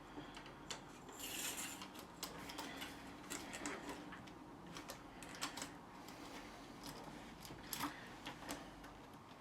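Scattered light clicks and small rattles from a telescopic suitcase handle's release mechanism being worked by hand, with a brief scraping rustle about a second and a half in. The handle is jammed: the button is meant to push the release rod down but isn't freeing it.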